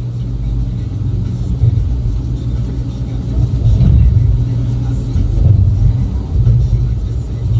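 Heavy loading machine's diesel engine running with a steady low rumble, swelling louder a few times as it works.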